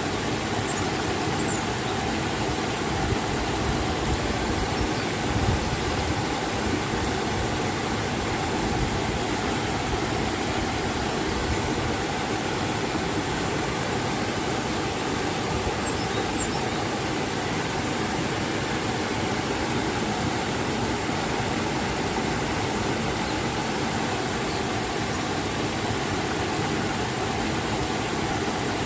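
River and waterfall water rushing in a steady, even wash of noise.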